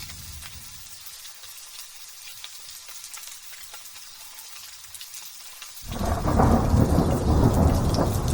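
Light drizzle pattering softly, then about six seconds in a sudden loud rumble of thunder breaks in and keeps rolling under the rain.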